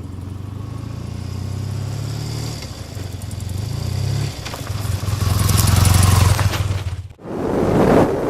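Motorcycle engine running at road speed. It dips briefly about four seconds in, as from a gear change or a lift of the throttle, then comes back louder. Near the end it cuts off abruptly and wind rushes over the microphone.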